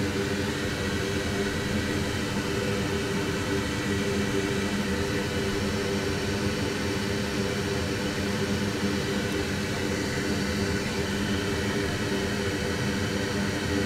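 A fan running steadily: an even whir with a low hum that holds unchanged throughout.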